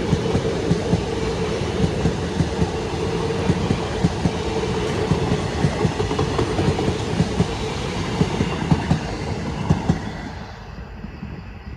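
Electric multiple-unit train passing close by, wheels clacking over rail joints in quick repeated strikes over a steady hum. The sound drops away and dulls about ten seconds in as the train clears.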